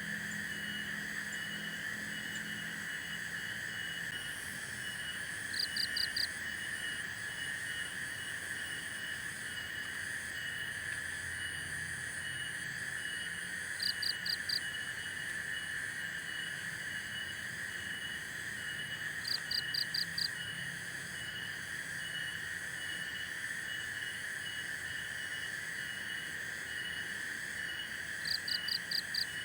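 Forest insect chorus: a steady high drone with a faint pulsing trill above it, and four times a short call of about four quick notes, several seconds apart.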